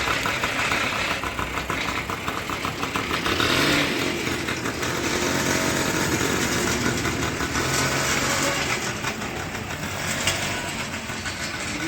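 Small 100cc petrol engine of a homemade four-wheeled farm plough vehicle running steadily, picking up a little about four seconds in.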